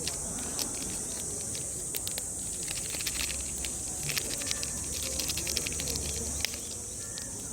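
Cicadas droning steadily in a high-pitched chorus, with scattered irregular crackling clicks throughout.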